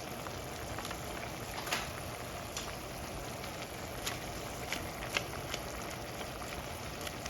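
Pot of noodles with onions and cabbage boiling: a steady bubbling hiss with a few light clicks scattered through.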